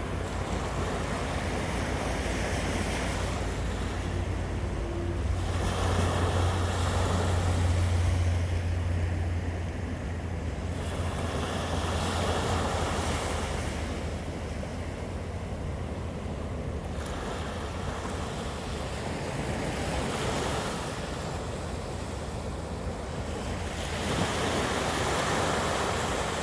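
Black Sea waves breaking and washing up the shore, the surf swelling and falling back every few seconds. Wind buffets the microphone with a low rumble, strongest about a third of the way in.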